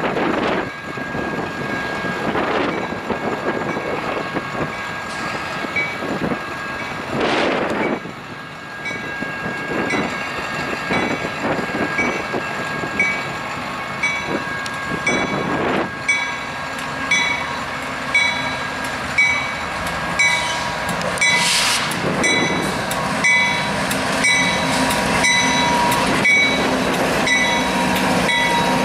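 Diesel-electric freight locomotives pulling an empty wind-blade train past at low speed: a steady rumble of engines and wheels on rail. A regular clicking comes about once every 0.8 seconds through the second half.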